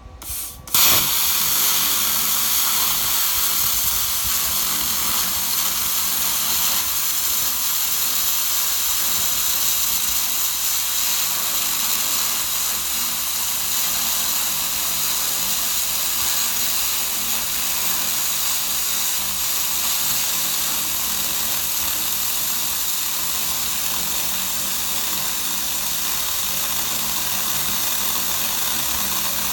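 Everlast 60 amp air plasma cutter cutting through the steel wall of a 275-gallon oil drum: a short burst as the arc strikes, then a loud steady hiss of the cutting arc and air jet.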